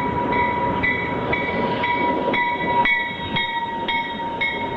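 Train pulling into the station: a dense rumble with a steady high tone, and a higher tone that repeats about twice a second over it.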